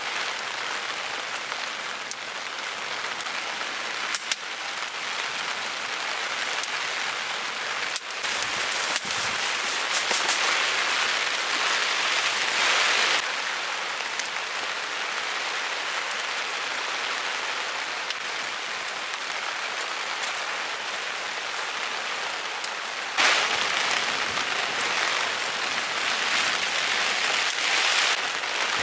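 Heavy rain falling steadily, a constant hiss of drops. It gets louder twice, about a third of the way in and again near the end, each time changing abruptly.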